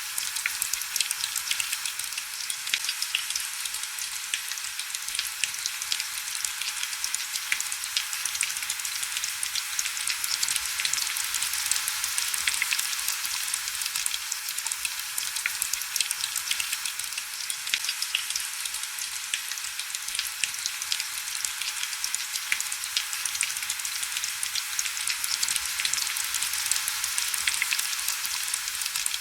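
Heavy rain falling steadily on window glass: an even hiss dense with sharp little drop clicks, with hardly any low rumble.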